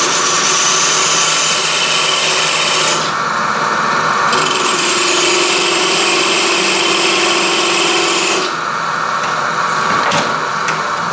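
Parting tool cutting into wood spinning on a lathe, making small parting cuts to mark the boundaries of a cove: two spells of loud scraping, about three and four seconds long, with a short pause between while the lathe keeps running.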